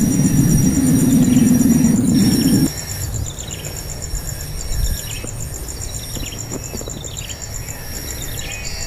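Short descending bird chirps repeating every half second or so over a steady, pulsing high drone of insects. A loud low rumbling noise covers the first few seconds and stops abruptly under three seconds in.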